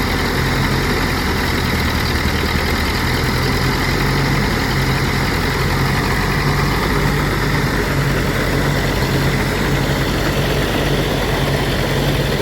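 Engine-driven rice threshing machine running steadily at a constant pitch.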